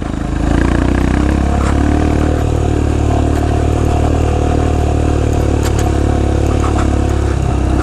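Royal Enfield Himalayan's single-cylinder engine pulling steadily under throttle, rising from a lower, pulsing run to a loud, even drone within the first half second. Scattered clicks and clatter sound over it.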